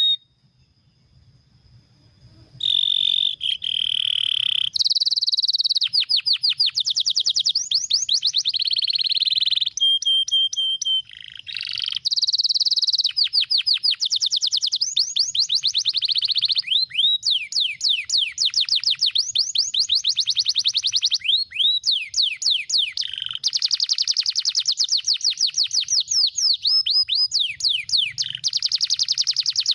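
Domestic canary singing fast, dense trills of rapidly repeated high notes, phrase after phrase with short breaks between them. The song comes in loud about two and a half seconds in, after a faint opening.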